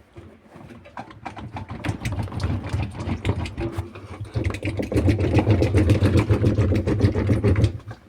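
Beko WMY81283LMB2 washing machine spinning with an unbalanced load, rattling and knocking loudly with rapid repeated knocks over a low hum. The rattling builds over the first couple of seconds, is loudest in the second half, and stops suddenly near the end.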